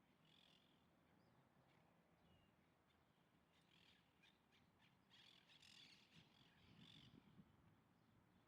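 Faint, harsh bird calls: a short call about half a second in, then a run of rough, chattering calls from about three and a half to seven seconds in.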